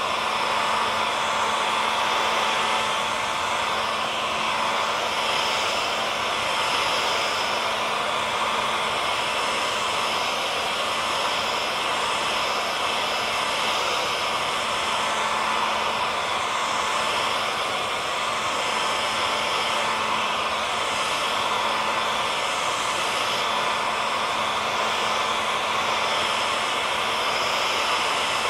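Hair dryer running steadily: a constant rushing blow with a steady motor hum and whine held at one pitch.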